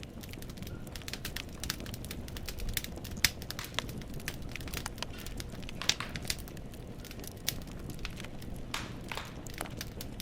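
Wood fire burning in a fireplace: logs crackling and popping in a dense, irregular run of sharp snaps over a low, steady rumble of the flames.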